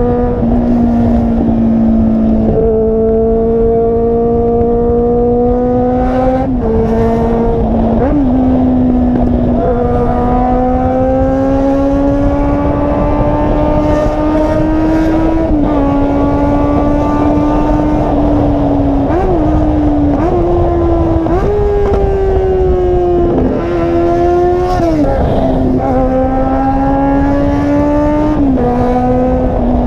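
Volkswagen Jetta engine and exhaust running under load, loud throughout. Its pitch climbs slowly and drops sharply several times.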